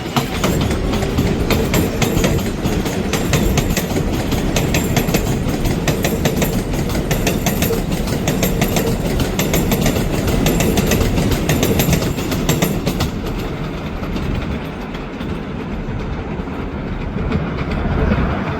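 New York City subway train of 7-line R188 cars running along the elevated Flushing Line track, its wheels clattering rapidly over the rail joints. The clatter stops about two-thirds of the way through and the train noise eases off.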